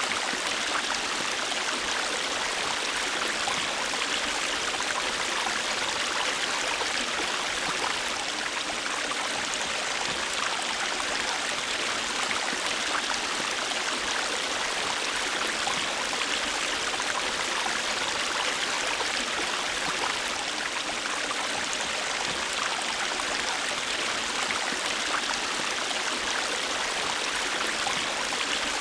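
River water running over stones, a steady rushing and babbling.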